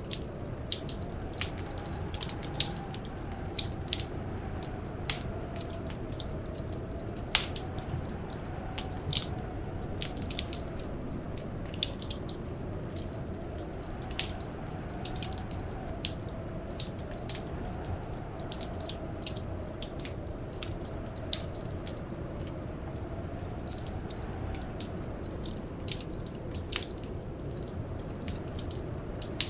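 Wood fire crackling in a fireplace, with frequent irregular sharp pops over a steady low rumble. Behind it a faint blizzard wind howls, slowly rising and falling in pitch.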